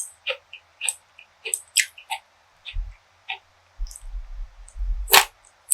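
Close-miked chewing of food: short crisp crackles about twice a second, with a few low thuds in the middle and a louder crunch near the end.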